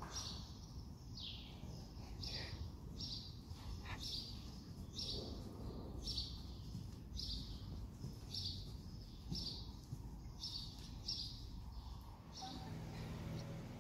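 A small bird chirping over and over: one short, high, falling chirp about once a second, stopping near the end, over a low background rumble.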